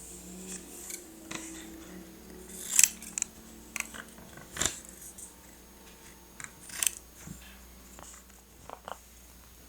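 Paper crafting for journal decorating: hands working paper and small tools, with scattered crisp snips and taps. The loudest come about three, four and a half and seven seconds in.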